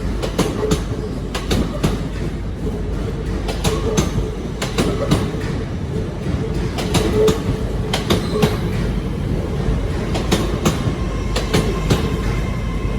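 LNER Class 801 Azuma electric multiple unit rolling slowly into the platform, its wheels clacking irregularly over rail joints over a steady hum and rumble.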